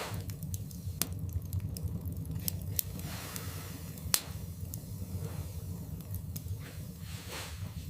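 Wood fire burning in a fireplace, crackling: scattered sharp pops over a steady low rumble, the loudest pop about four seconds in.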